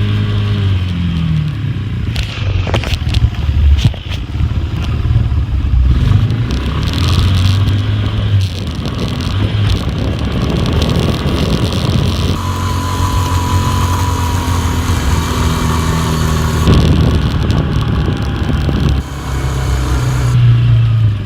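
Four-wheeler (ATV) engine running and changing speed, its pitch dropping about a second in and rising and falling after that, with a few sharp knocks about three seconds in.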